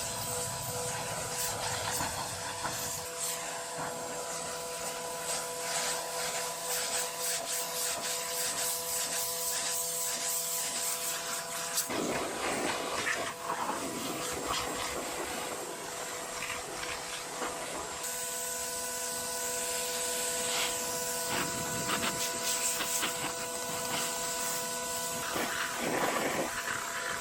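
Pressure washer running, with the steady hiss of its spray jet over a constant machine whine; the spray's sound shifts a few times as the jet is moved.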